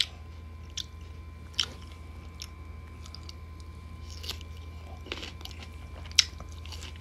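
Close-up biting and chewing of crisp unripe green mango slices, with several short sharp crunches, the loudest about six seconds in.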